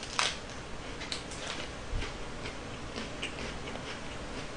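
Close-up crunching of a KitKat wafer bar being bitten and chewed: irregular small crisp clicks, several a second.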